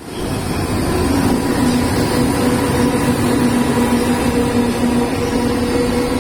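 Train running with a steady low hum and rumble.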